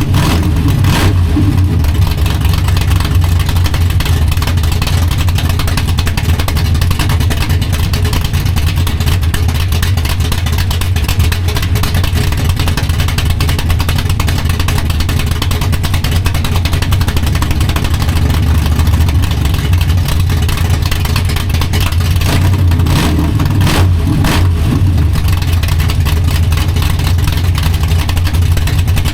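Small-block Chevy V8 (355 cubic inch) running through open fenderwell headers fitted with prototype header mufflers, a steady, deep exhaust note held at a fairly even speed.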